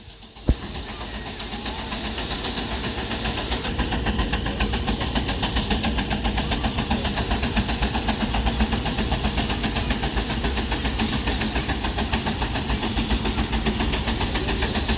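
Steam traction engine working hard in a tractor pull: a fast, even chuffing of its exhaust that grows steadily louder. A click about half a second in, just after a brief drop in sound.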